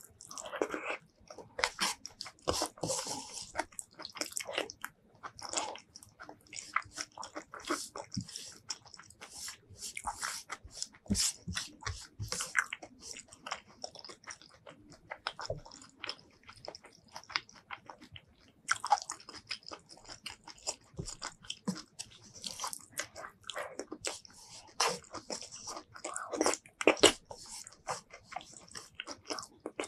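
Close-miked eating by hand: wet chewing and lip smacking on a mouthful of rice with fried roselle leaves and bamboo shoots, with crisp crunching, heard as a dense run of small clicks and smacks.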